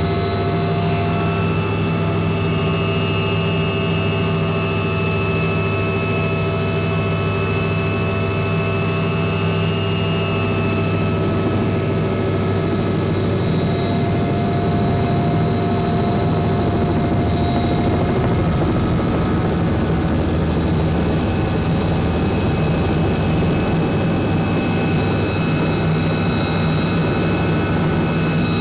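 Helicopter in flight, a steady engine and rotor drone with a high turbine whine over it.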